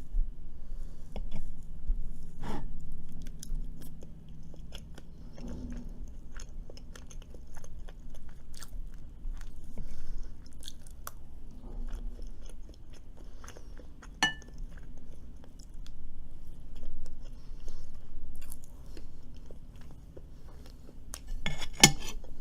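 A person chewing and crunching food close to the microphone, with many small wet mouth clicks. There is a single ringing clink about 14 seconds in and a louder, sharp clatter near the end.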